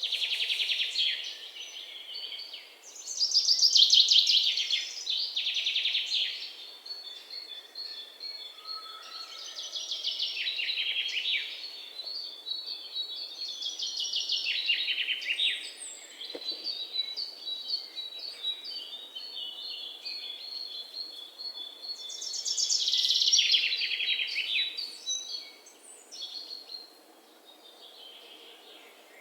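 Small songbirds singing: fast, high trilled phrases a second or two long, repeating with short gaps, with a run of quick repeated chirps through the middle.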